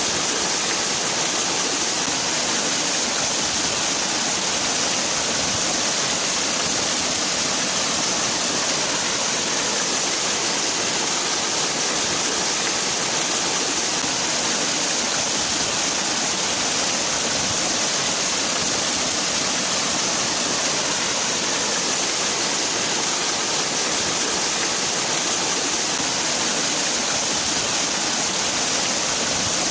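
Waterfall: water falling and splashing in a steady, unbroken rush with a hissing top.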